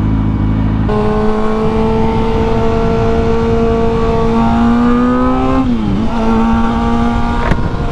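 Motorcycle engine pulling away and accelerating: the engine note climbs steadily, drops sharply at a gear change about six seconds in, then holds steady. Wind rushes over the helmet microphone.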